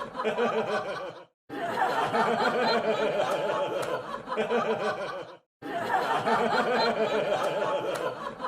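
Crowd laughing: a canned laugh-track clip of many people laughing together, repeating in stretches of about four seconds, each cut off by a brief silent gap.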